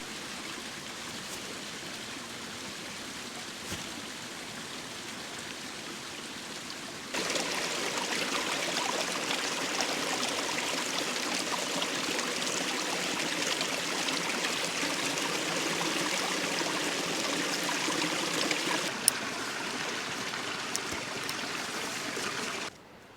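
Steady rushing of water in a stream, heard across a few cut-together takes: softer at first, much louder from about seven seconds in, a little quieter again near the end, then cut off abruptly.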